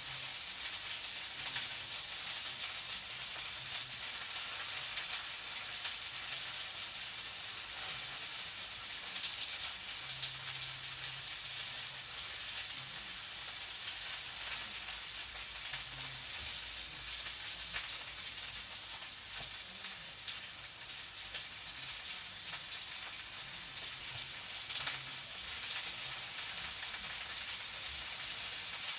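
Food frying in a pan: a steady sizzle with fine crackling.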